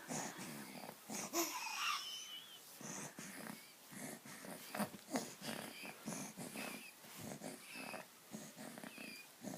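Premature baby's faint wheezy breathing, with small squeaks and scattered soft clicks.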